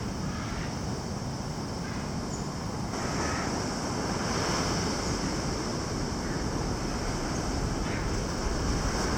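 Ocean surf rushing steadily on the shore, with wind on the microphone; it swells a little about three seconds in.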